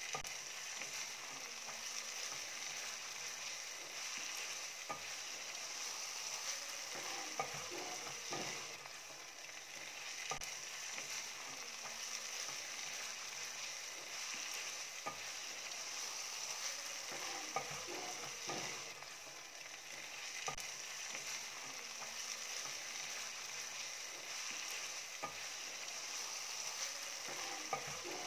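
Food sizzling as it fries, a steady hiss with occasional clicks and scrapes of stirring. The same stretch of sizzling appears to repeat about every ten seconds.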